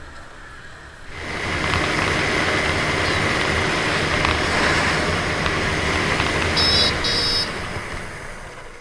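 Yamaha FZS motorcycle riding at speed, heard on a helmet-mounted camera as engine and wind noise that jumps up sharply about a second in, then dies away over the last second as the bike slows. Two short, high-pitched beeps sound near the end.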